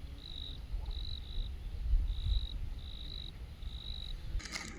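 Crickets chirping at night, short high chirps repeating about twice a second over a low rumble. Near the end a brief rustling clatter breaks in.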